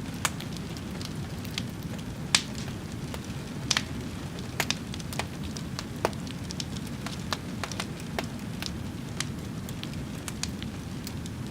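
A fire crackling: irregular sharp pops and snaps, a few of them louder, over a steady low rushing sound.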